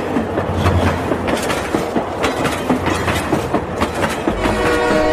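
Battery-powered plastic toy train running on its plastic track, with fast, irregular clicking and rattling from the wheels and motor. About four seconds in, a steady sound of several tones joins in.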